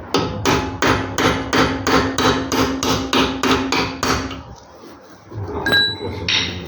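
Rapid hammer blows on metal, about four a second for some four seconds, each one ringing. Two lighter metallic clinks follow near the end.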